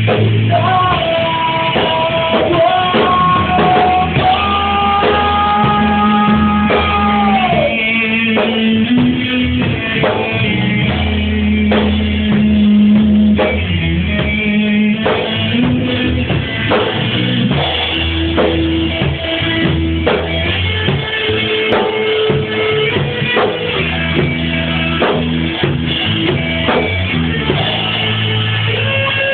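Rock band playing an instrumental passage: a guitar lead of long held, bending notes over bass and drum kit. About seven seconds in, the held lead note drops away, and shorter guitar phrases run on over the rhythm section.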